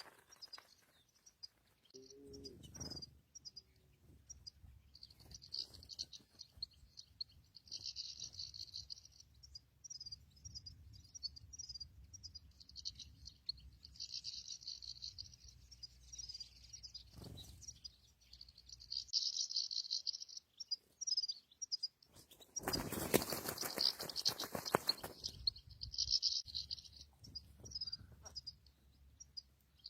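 Goldfinches twittering in short, high, scattered phrases. A loud rush of noise breaks in about 23 seconds in and lasts a couple of seconds.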